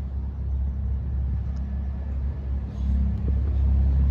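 Low, steady rumble of street traffic, a little louder about three seconds in.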